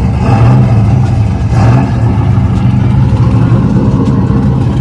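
A car engine and exhaust running loud with a deep drone, briefly blipped louder twice in the first two seconds.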